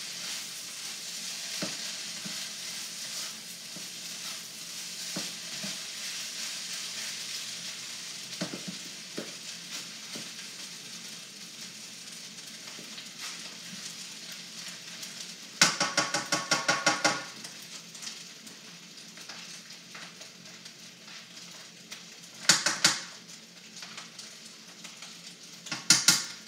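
Duck fried rice sizzling in a hot wok as the rice crisps, the sizzle slowly fading. About halfway through comes a loud burst of rapid scraping strokes of a spatula against the wok, lasting over a second, and two shorter bursts follow near the end.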